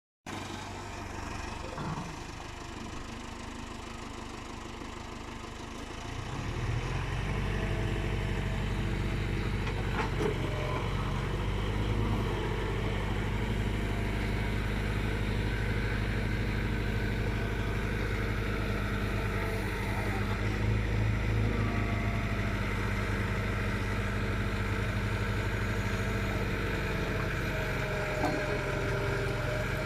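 Heavy diesel engine running steadily; about six seconds in it grows louder and deeper and keeps running at that higher level.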